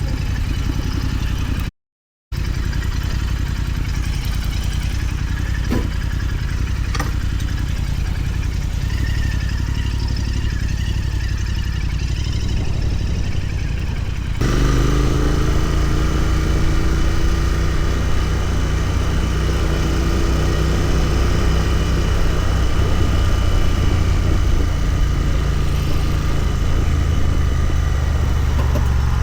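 Royal Enfield Continental GT 650's 648 cc parallel-twin engine and exhaust running on the move. About 14 seconds in it gets louder as the revs rise, then holds steady; there is a half-second gap in the sound about two seconds in.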